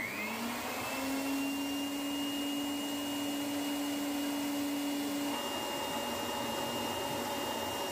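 Handheld electric air blower switched on, its motor whining up to speed and then running steadily with a rush of air. A lower hum drops out about five seconds in while the whine carries on.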